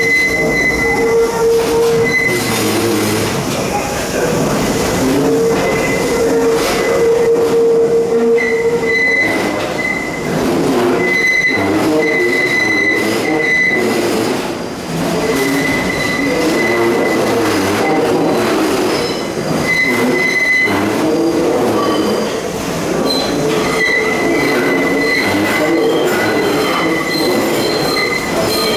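R62A subway train's steel wheels squealing on a very tight loop curve as the train moves slowly out, over the rumble of the cars. The squeal sits on two pitches, one high and one lower, that keep breaking off and starting again.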